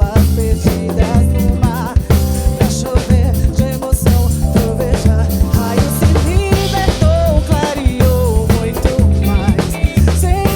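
Samba-funk band playing an instrumental passage: drum kit, bass and percussion keep a steady groove under keyboard chords and a wavering melodic lead line.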